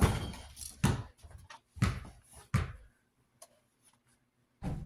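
Four knocks and clunks from handling desk-fan parts during repair, spaced about a second apart, then quiet.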